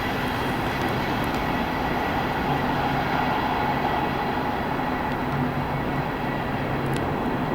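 Coaches of an express passenger train rolling past at speed, a steady rail rumble and wheel noise without a clear clickety-clack rhythm.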